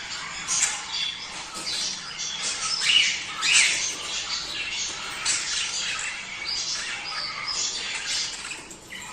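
Budgerigars chattering and squawking in a continuous stream of overlapping chirps, with a couple of louder squawks about three seconds in: budgie breeding-season chatter.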